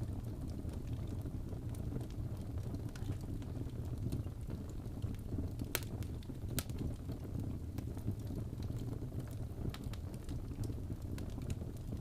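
Wood fire in a fireplace crackling: a steady low rumble of flames with scattered sharp pops, two louder pops close together about halfway through.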